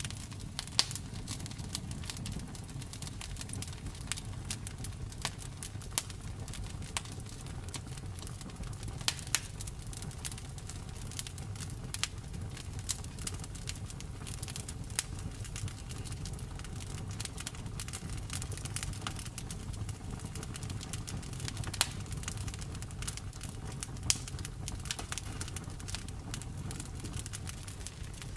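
Wood fire burning with a steady low rumble and frequent irregular crackles and pops, a few sharper pops standing out.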